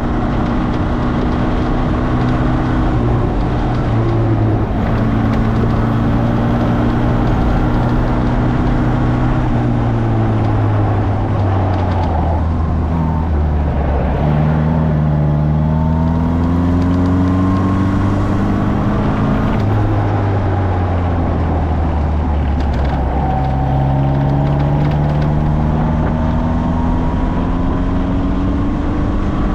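Morgan sports car engine at full effort on a sprint lap, heard onboard. The revs climb under acceleration, drop at gear changes and fall away as the car slows for corners, several times over.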